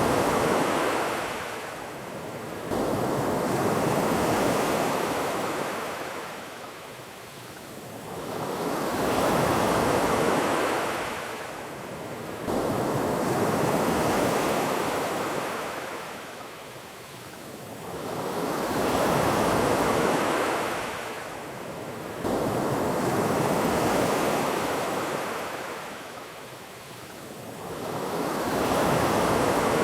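Ocean surf: waves rush in and wash back in slow swells of water hiss, one about every five seconds.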